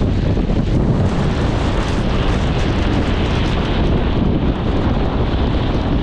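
Strong storm wind rushing and buffeting the microphone, a loud, steady roar of noise heaviest in the low end.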